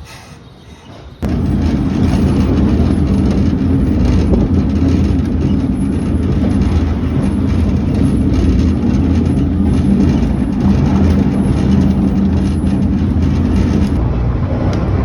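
A railway train running on its track: a loud, steady rumble with a low hum, starting abruptly about a second in and easing slightly near the end.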